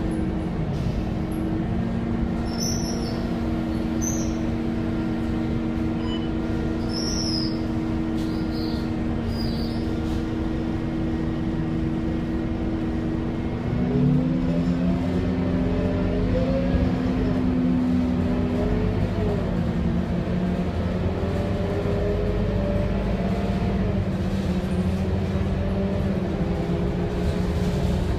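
Scania K230UB bus's 9-litre DC9 diesel engine idling steadily, then about halfway through pulling away: the revs rise, dip at an upshift of the ZF automatic gearbox, and rise again. A few short high squeaks sound during the idle.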